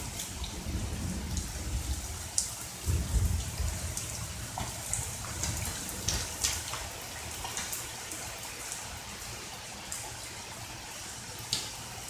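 Steady rain with individual drops striking close by now and then as sharp ticks. A low thunder rumble, heaviest about three seconds in, dies away after about four seconds.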